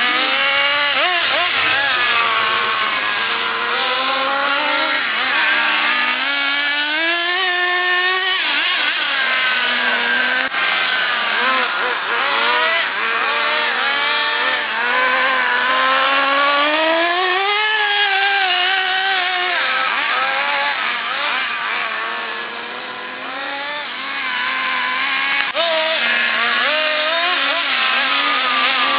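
High-revving engines of HPI RS4 Evo3 radio-controlled touring cars running laps, their pitch climbing and dropping with the throttle through the corners and straights. At times two cars can be heard at once, and the sound briefly fades about two-thirds of the way in.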